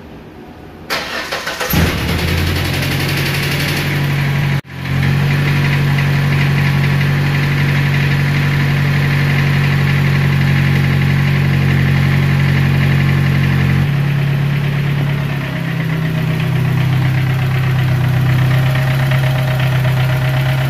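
Ford Ranger four-cylinder engine cranked by the starter, catching about two seconds in, then idling steadily; the sound cuts out for an instant near four and a half seconds and the idle note changes a little near fourteen seconds. A light tick remains with freshly replaced lifters, which the owner suspects is a noisy fuel injector.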